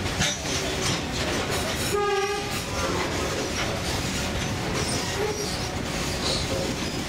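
Narrow-gauge sugar-cane train running along the track, a steady rumble with rail clicks heard from an open-sided passenger car. About two seconds in, a short horn blast sounds.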